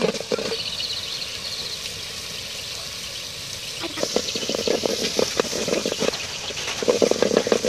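Spice masala sizzling and bubbling in hot oil in a metal pot, with a metal spoon stirring and clicking against the pot; the frying gets louder and more crackly from about four seconds in as the stirring picks up.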